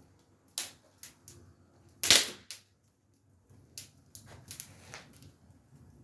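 Wood fire crackling in a barbecue firebox: scattered sharp pops and snaps, the loudest about two seconds in.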